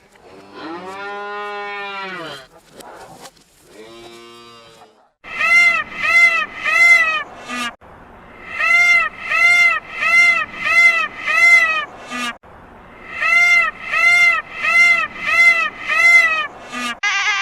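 A cow mooing with two long low calls, followed by three runs of short, high, repeated honking calls at about two a second from another animal.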